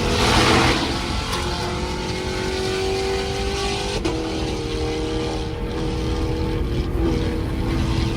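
Car engine and exhaust droning at speed in traffic, the pitch climbing slowly, with a sudden step about four seconds in like a gear change. A loud rush of noise fills the first second.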